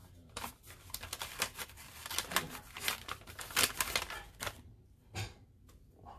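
A rapid, irregular run of light clicks and taps from small hard objects being handled, lasting about four seconds, then thinning to a few scattered clicks.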